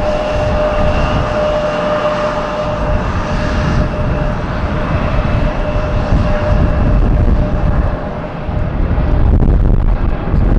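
Jet airliner engines running with a steady whine over a low rumble; the whine fades about two-thirds of the way through, and the rumble swells again near the end.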